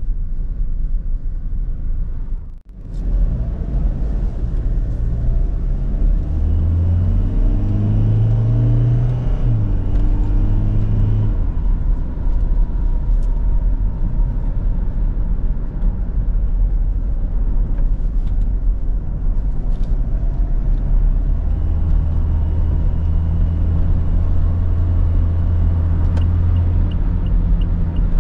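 Toyota Kijang Innova's 2GD-FTV 2.4-litre four-cylinder turbo diesel driving the car over a steady road rumble. About a third of the way in, the engine note rises in pitch under acceleration, then drops back. Later it settles into a steady drone, with a faint regular ticking near the end.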